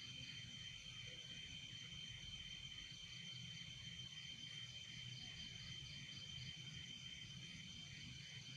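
Faint chorus of night insects, crickets trilling in a steady pulsing drone with one high, unbroken tone above it, over a low hum.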